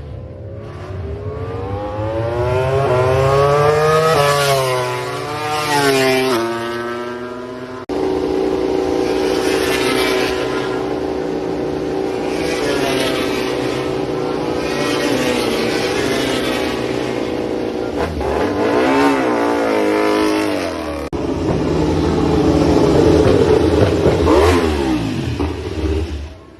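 MotoGP race motorcycles running at high revs. First a bike accelerates, its pitch climbing and dropping back with each upshift. Then comes a steady high-revving run, and bikes pass by with the pitch rising and then falling away. The sound jumps abruptly at a few points.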